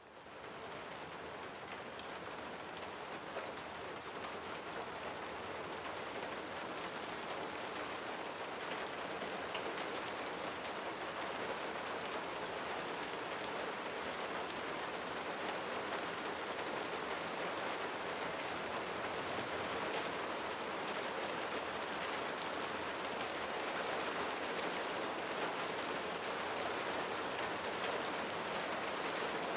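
Steady rain falling on leaves, a dense even patter that fades in out of silence over the first second.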